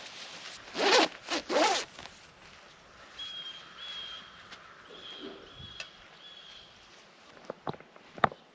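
A zipper pulled twice in quick succession about a second in, two fast rasping strokes.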